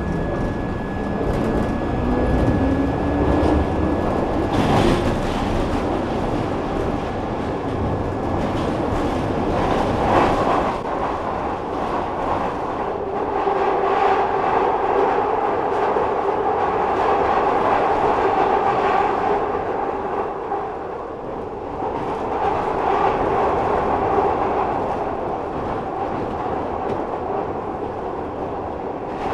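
Glasgow Subway train running through its tunnel, heard from on board: the traction motor whine rises in pitch over the first few seconds as the train accelerates. It settles into a steady running rumble with a pitched hum that dips for a moment about two-thirds of the way through, then returns.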